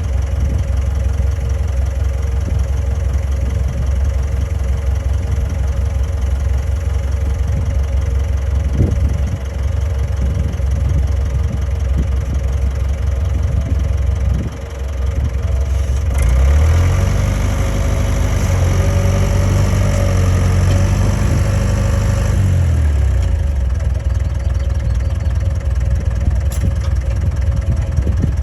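Heavy diesel machine engine idling steadily. About halfway through it is revved up and runs higher and louder for several seconds, then drops back to idle.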